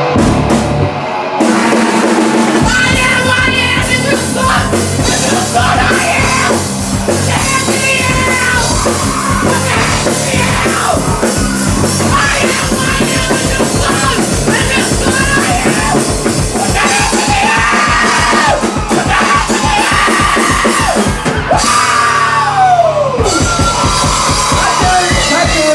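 Live rock band playing loud: a drum kit on a steady beat, guitar and vocals. Near the end the drums and bass drop out for about a second and a half under a falling pitch swoop, then the full band comes back in.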